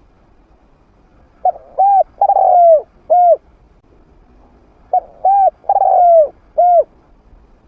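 Spotted dove cooing, a trained decoy bird with a medium-pitched voice: two phrases, each about two seconds long with four or five notes, the next-to-last note longer and falling, the second phrase starting about three and a half seconds after the first.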